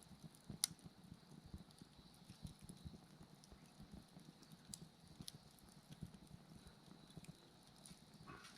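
Quiet wood fire crackling, with irregular snaps and pops, the sharpest less than a second in, and insects chirping faintly and steadily behind it.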